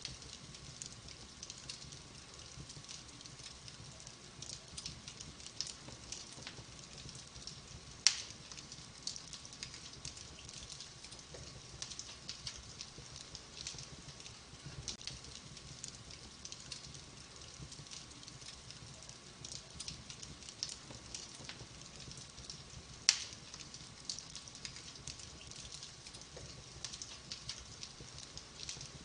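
Wood fire burning in a fireplace: a constant light crackle of small snaps, with two loud sharp pops, about eight seconds in and again some fifteen seconds later.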